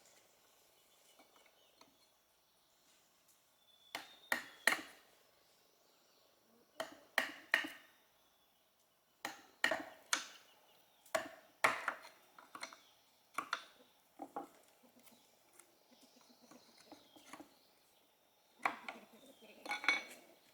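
Sharp clinks and knocks of hard objects striking each other, coming in short clusters of a few strokes every couple of seconds.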